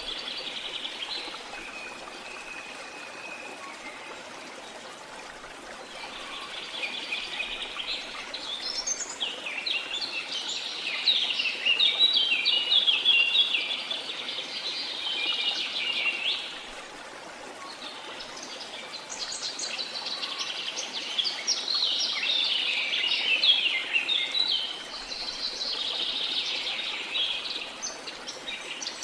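Birds singing in rapid, overlapping chirps in two long bouts, over a steady hiss of flowing water.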